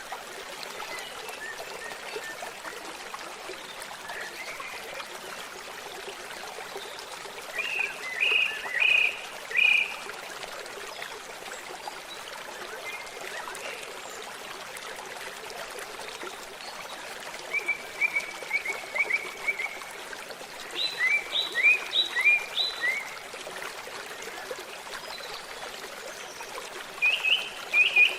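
Steady babbling of a stream, with a songbird singing short bursts of quick chirps every few seconds.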